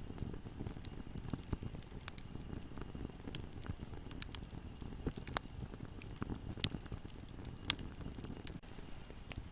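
Bonfire burning: a steady low rumble of flames with irregular sharp crackles and pops, one of them louder late on.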